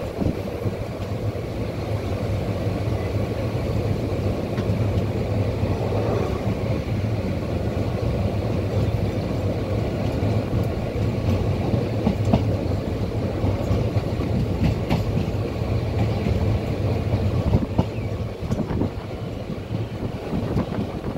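Passenger train running along the track, heard from on board: a steady low rumble of wheels on rails, with a few sharp clicks from the rail joints.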